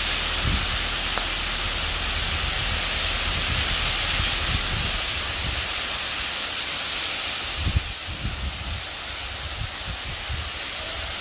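Heavy rain pouring onto a concrete lane and driveway: a steady hiss, with irregular low rumbles underneath. It eases slightly about two-thirds of the way through.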